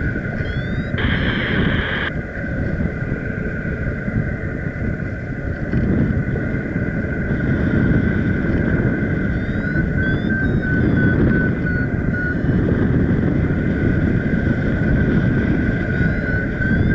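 Strong wind buffeting a paraglider pilot's microphone in a loud, continuous rumble. A paragliding variometer beeps in quick pulses about halfway through and again near the end, signalling that the glider is climbing in ridge lift from the strong wind.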